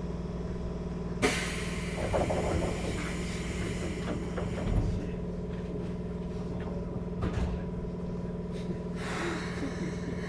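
Interior of a Keikyu 1500-series electric train car standing still: a steady low hum from its onboard equipment, with a sudden hiss of air about a second in that fades over a few seconds, then a low thud and scattered knocks.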